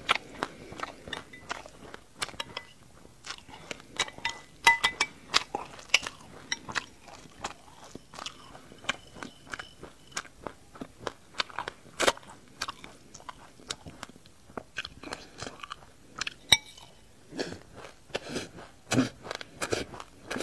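Close-up crunching and chewing of a mouthful of sesame seeds with passion fruit pulp and seeds: many small irregular crackles, with a few sharper, louder crunches.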